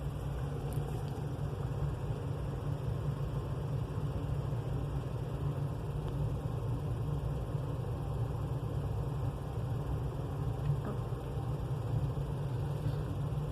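A steady low rumble that holds even throughout.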